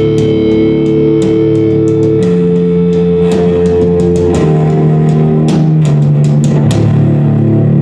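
Loud live experimental noise music: sustained low droning notes, guitar-like, that shift to new pitches about two and about four seconds in, with sharp clicks and hits scattered over them.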